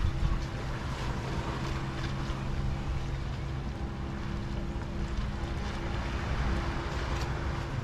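A boat's motor running steadily at low revs, a constant low hum, over wind and lapping waves.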